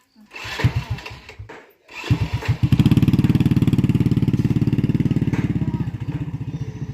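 A small engine catches about two seconds in after some uneven low pulses. It then runs with a rapid, even beat and eases off slightly near the end.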